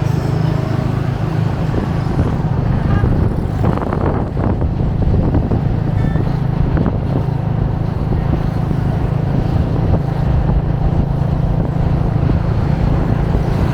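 A moped running steadily on the move, a constant low engine hum mixed with wind and road noise.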